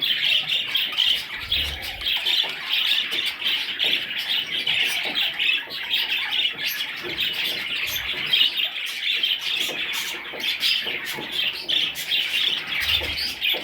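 A group of young budgerigars chattering and squawking together in a dense, unbroken chorus, with scattered short ticks throughout.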